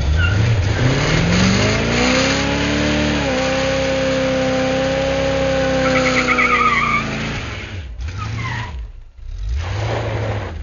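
1978 Chevy pickup's 350 small-block V8 revving hard under load offroad. The engine climbs in pitch over about three seconds, holds high for about four, then drops off and revs up and down once more near the end, over a rough haze of tire noise with a short squeal about six seconds in.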